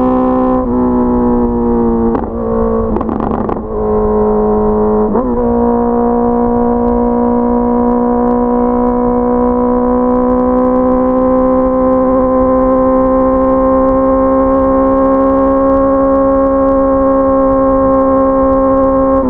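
Honda CBR650R's inline-four engine under way: several quick changes in engine pitch in the first five seconds, then a long steady run at nearly constant engine speed that creeps slowly upward.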